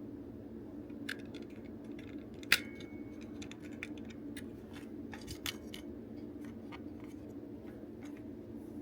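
Small clicks and taps of hard plastic parts and hand tools during disassembly of a toy transformation belt, with one sharp click about two and a half seconds in that rings briefly. A steady low hum runs underneath.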